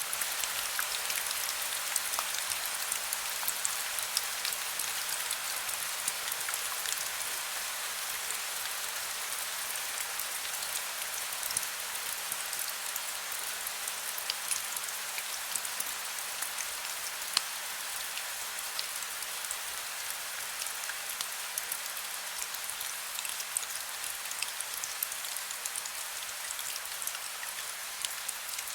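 Heavy rain falling steadily: a dense, even hiss scattered with many sharp individual drop ticks.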